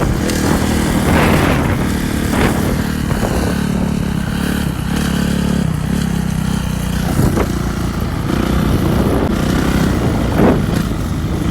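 Motocross dirt bike engines running and revving, with several brief rises in pitch as the throttle is opened.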